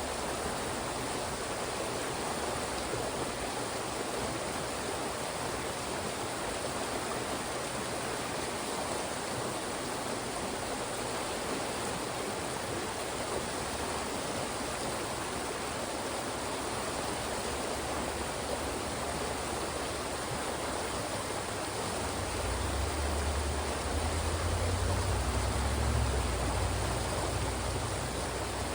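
Fast-moving mountain stream rushing through channels between rocks: a dense, steady wash of water. For the last several seconds a low rumble swells underneath it.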